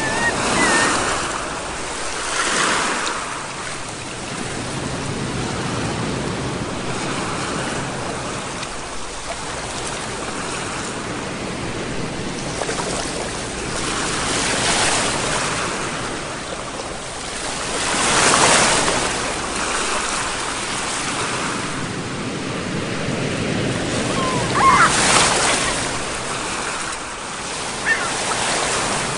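Sea waves breaking and washing on the shore: a steady surf hiss with several waves surging in, the strongest about two-thirds of the way through and near the end. A brief high-pitched cry comes just before the last surge.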